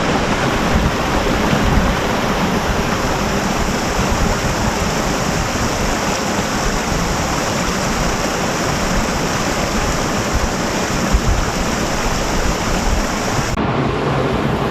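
Steady rush of water from a waterfall on the Gratiot River, a loud, even sound of falling and churning water.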